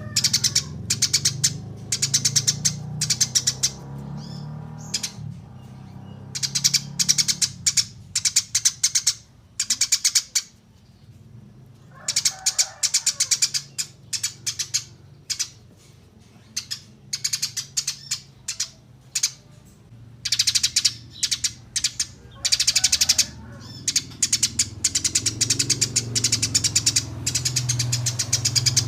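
Small songbirds singing fast runs of high, clicky chirps in bursts broken by short pauses, over a low steady hum.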